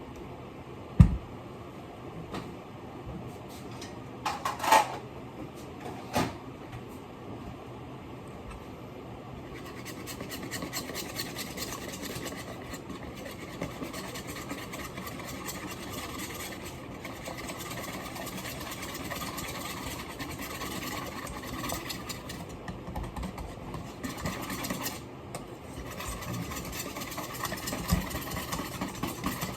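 A few light knocks, then from about ten seconds in a small motor runs steadily with a fast, even buzz.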